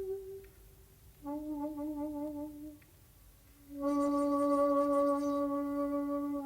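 Solo shakuhachi playing long, slightly wavering held notes of a honkyoku piece. A note dies away at the start, and after a breath pause comes a short lower note. After another pause a longer note at about the same pitch is held through the end.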